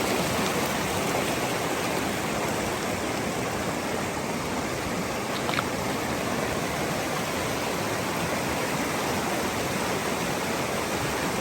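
Stream water rushing steadily, with one faint brief click about five and a half seconds in.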